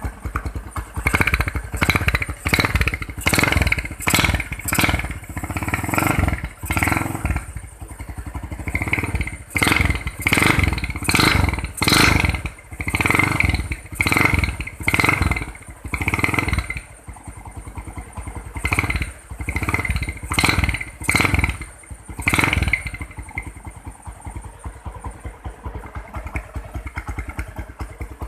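Yamaha motorcycle with a Dixon aftermarket exhaust being revved in repeated short throttle blips, about one a second, as a sound check of the exhaust. Near the end the blips stop and the engine settles to idle.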